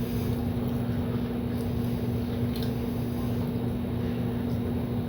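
Steady mechanical hum with one constant low tone and a rumble beneath it, broken only by a couple of faint clicks.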